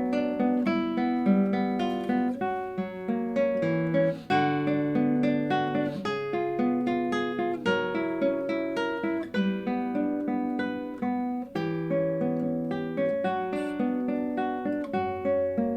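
Solo classical guitar playing a steady flow of plucked notes that ring into one another.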